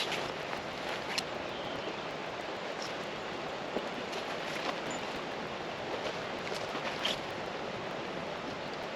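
Steady rushing outdoor noise with a few short sharp clicks.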